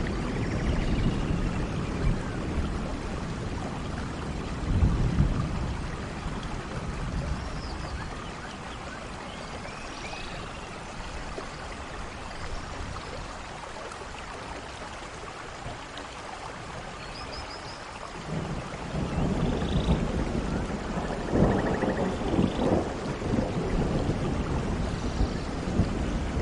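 Steady heavy rain with low rolling thunder; the thunder dies away around the middle and builds up again about two-thirds of the way through. Short high chirps break through now and then.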